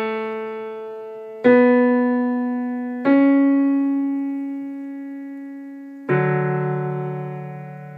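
Piano keyboard playing single notes A, B and C sharp one after another, then a lower D and F sharp struck together, each left to ring and fade.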